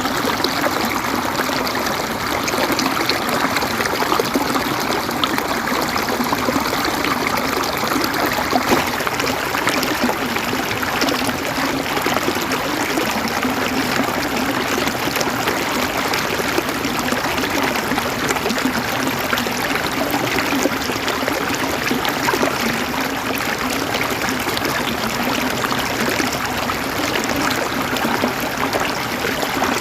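River water running steadily over rocks, a continuous even rush with gurgling and trickling.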